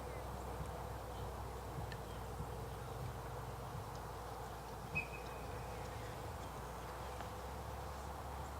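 Steady outdoor background hum with a faint constant buzzing tone, broken by one short, high chirp about five seconds in.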